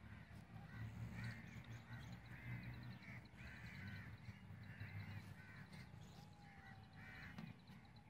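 Faint bird calls: short, arching calls repeated every half second or so, over a low steady hum.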